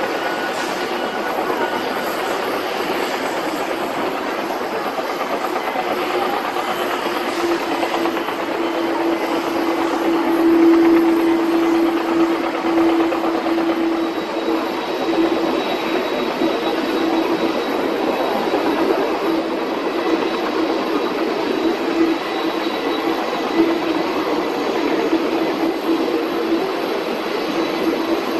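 Jet airliner engines running, a steady noise with a constant low hum that swells briefly about ten seconds in.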